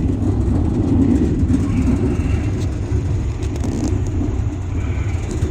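Steady low rumble of a moving passenger train, heard from inside a sleeper compartment.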